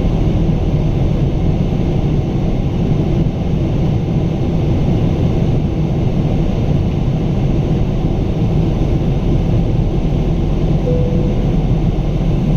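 Steady rumble of the Pratt & Whitney PW4000 turbofans and airflow heard inside the cabin of a Boeing 777-200 during the climb after takeoff.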